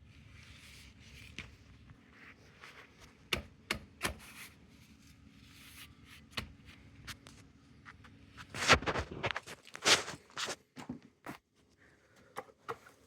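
Handling noises: scraping and rubbing with irregular clicks and knocks, and a cluster of louder knocks about nine to ten seconds in.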